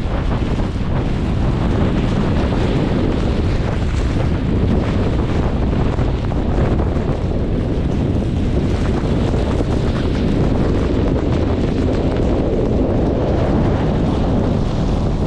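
Strong snowstorm wind blowing hard across the microphone, a steady heavy rumble with no letup.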